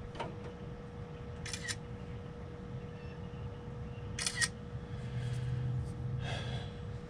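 Camera shutter clicks as photos are taken, two quick double clicks about three seconds apart, over a steady low hum.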